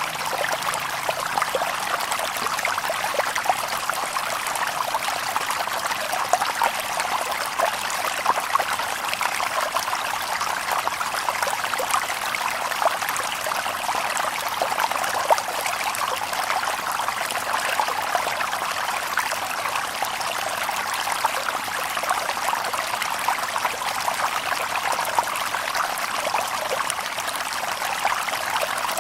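Shallow stream babbling over stones, a steady, continuous splash and trickle with many small bubbling pops.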